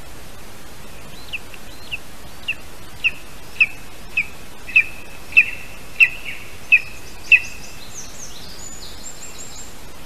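A bird calling a series of about a dozen short, sharp notes, roughly two a second and growing louder. Higher, quicker chirps follow near the end, over a steady hiss.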